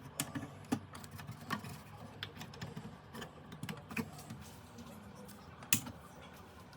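A series of irregular light clicks and taps, several a second and uneven in spacing, with one sharper click a little before the end, over a low steady hum.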